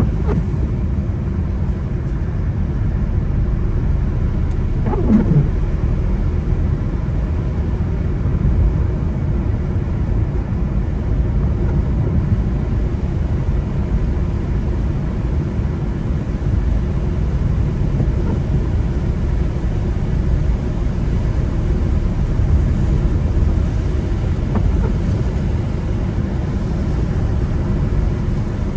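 Steady road noise of a car driving on a wet road: a low rumble of engine and tyres, with a brief falling tone about five seconds in.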